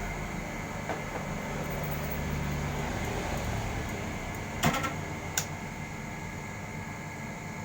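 Work on a single-tub washing machine under repair: a low hum that fades after about three seconds, then a few sharp clicks and knocks, the loudest a short cluster about four and a half seconds in.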